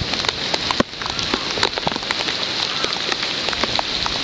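Heavy rain falling steadily, a constant hiss with many sharp drops hitting close by.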